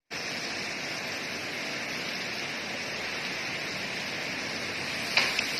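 Steady, even rushing hiss of heavy rain from a thunderstorm. A short sharp knock comes near the end.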